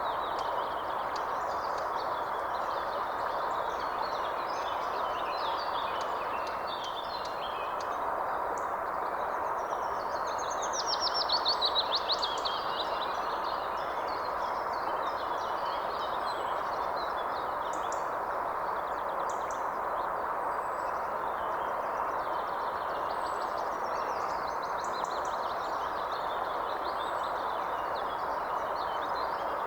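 Several birds calling and singing over a steady rushing background, with many short chirps throughout. The loudest is a fast trill, a little over ten seconds in, lasting about two seconds.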